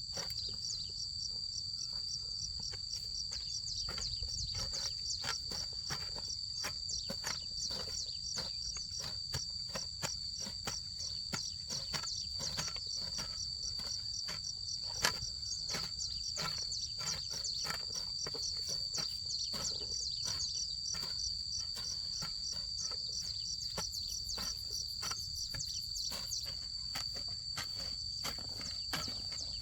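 A steady chorus of insects trilling high and fast, with many light irregular clicks and taps over it and one sharper knock about halfway through.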